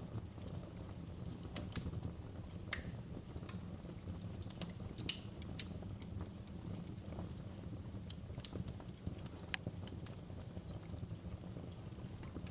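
Wood fire crackling in a fireplace: irregular sharp snaps and pops over a steady low rumble of the burning fire, with one louder snap a little under three seconds in.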